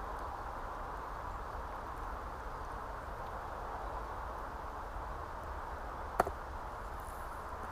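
Thick-cut bacon frying in a pan over a wood campfire: a steady hiss, with one sharp crack about six seconds in.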